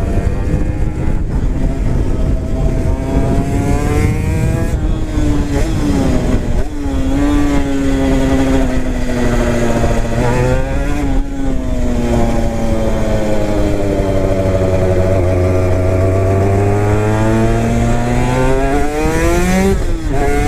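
Honda NSR250R two-stroke V-twin running on expansion chambers, its pitch repeatedly falling and rising as the bike slows and accelerates, with a long slow dip and climb in the second half. Heavy low rumble of wind on the microphone underneath.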